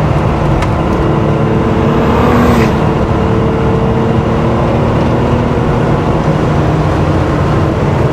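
Air-cooled flat-six engine and sport exhaust of a 1979 Porsche 911 SC with a 3.2-litre short-stroke conversion, running loud and steady under load on the road. The note changes briefly about two and a half seconds in.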